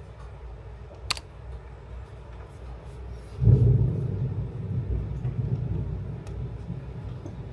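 A sharp click about a second in, then a low rumble that starts suddenly about three and a half seconds in and slowly dies away.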